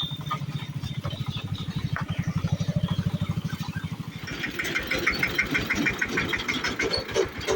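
A vehicle engine idling with a fast, even pulse. About four seconds in, a rapid high-pitched pulsing ring joins it.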